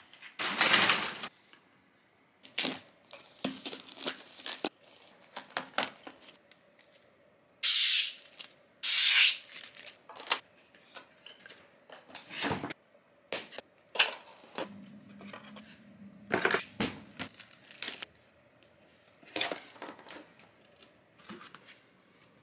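Plastic packaging being torn open and crinkled by hand, with scattered rustling and handling noises. Two loud rips come close together about a third of the way in.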